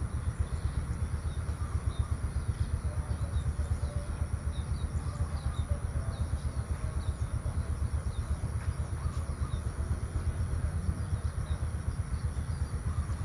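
Small birds chirping repeatedly in short high notes over a constant low, fluttering rumble, with a steady high hiss above.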